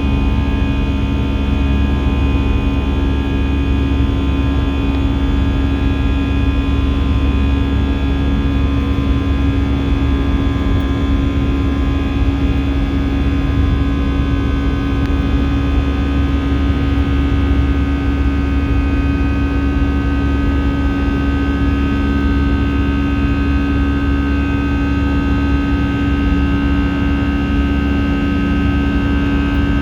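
Airbus A319 cabin noise in flight: a steady drone of the jet engines and airflow, with a deep rumble and several steady whining tones.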